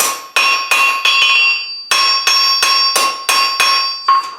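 Hand hammer striking hot mild steel bar on an anvil, about three ringing blows a second with a short pause midway, the anvil ringing after each blow as the bar is drawn out to a taper.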